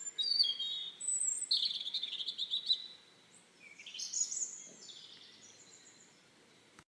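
Small birds chirping and singing, high quick calls in dense runs, easing off about three seconds in and picking up again near four seconds before fading.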